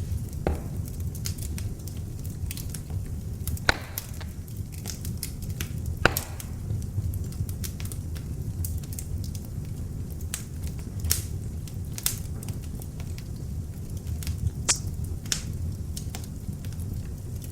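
Beech-wood log fire in an open fireplace burning with a steady low rumble of flames and irregular sharp crackles and pops from the wood, the loudest pops about 4 and 6 seconds in.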